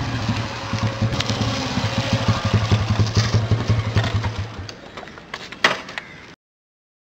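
Motorcycle engine running with a fast, even pulse, which dies away about four and a half seconds in. A single sharp click follows about a second later.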